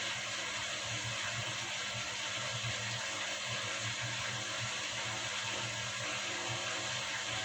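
Beko washing machine running: a steady mechanical hum and hiss, with a low motor drone that swells and fades irregularly.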